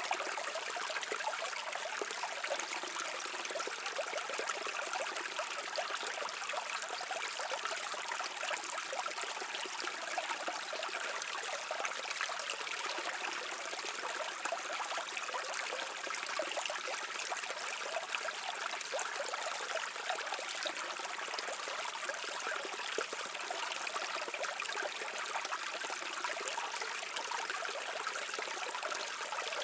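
Brook water running and trickling over rocks, a steady splashing and babbling.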